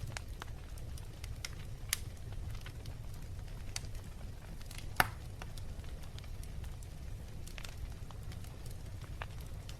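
Wood fire crackling in a fireplace: scattered sharp pops and snaps over a steady low rumble, with one loud pop about halfway through and another about two seconds in.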